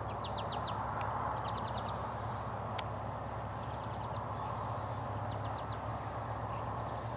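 A small bird singing short, rapid high trills of a few notes each, repeated every second or two, over a steady low outdoor background noise.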